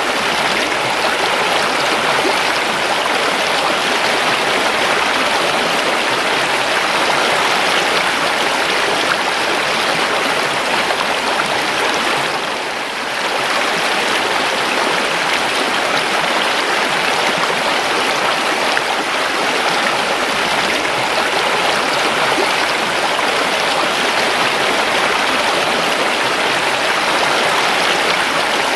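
River water flowing in a steady, continuous rush, with a brief dip in level about twelve seconds in.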